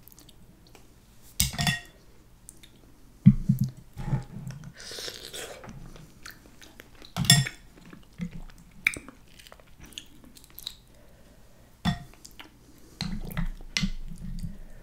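Close-miked chewing of sauce-covered mussels and vegetables, with several sharp clicks of mussel shells knocking against the glass bowl.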